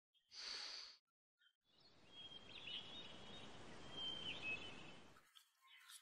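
A short breathy hiss, then a steady outdoor noise bed in which a small bird chirps twice. The noise cuts off suddenly about a second before the end.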